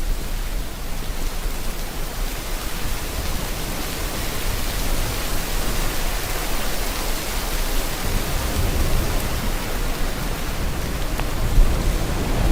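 Steady rain mixed with ocean surf, an even hiss that swells gently, with a low rumble building near the end.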